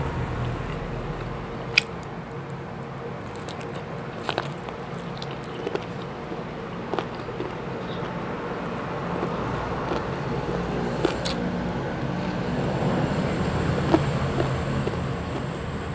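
Close-miked chewing and biting of chicken adobo and rice eaten by hand, with sharp mouth clicks and smacks every second or two. A steady low hum runs underneath.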